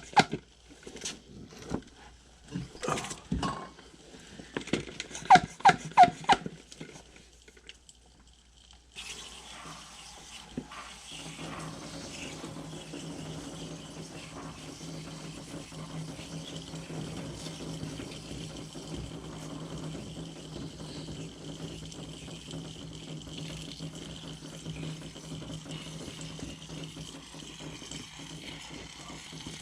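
Several seconds of knocks and clicks from handling, with three short squeaks about five to six seconds in. After a brief pause, a steady rush of water spraying starts about nine seconds in and runs on evenly while the dirty coil is being rinsed.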